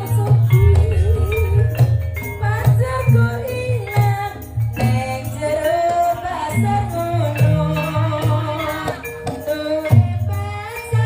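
Live gajah-gajahan folk band music: a wavering lead melody over percussion, with a heavy, steady low beat and jingling hand percussion.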